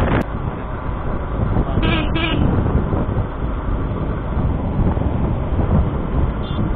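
Motorcycle riding along with a steady wind rumble on the microphone, and a horn tooting twice in quick succession about two seconds in.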